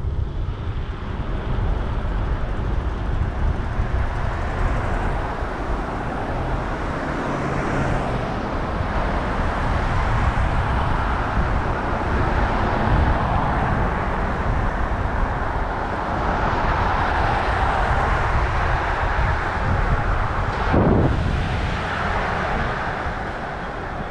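Wind buffeting the microphone of a moving bicycle with city street traffic noise, a steady rumble and hiss, and a brief burst of noise near the end.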